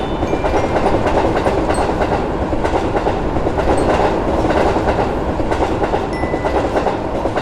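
A train passing on the rails: a steady rumble with dense clatter of wheels over the track.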